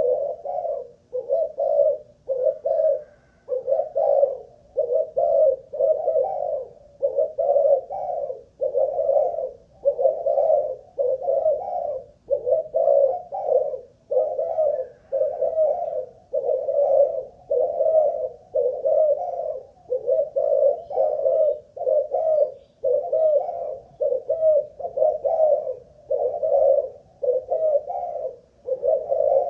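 Spotted dove (Malaysian-bred cu gáy) cooing, one coo phrase after another at roughly one a second with only short breaks. It is a long unbroken run of calling, the staying power that a decoy dove is tested for.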